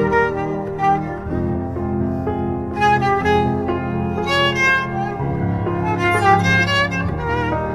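Kamancheh, a bowed spike fiddle, playing a slow melody of long, wavering notes over held low string notes.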